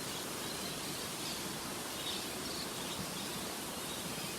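Steady hiss of wind and rain during a sudden storm, with a few faint high bird chirps.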